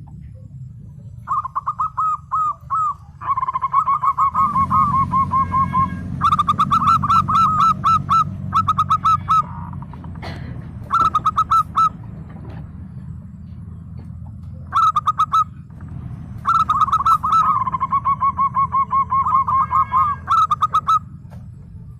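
Zebra dove (perkutut) cooing: several bouts of rapid, staccato repeated coo notes, with short pauses between the bouts.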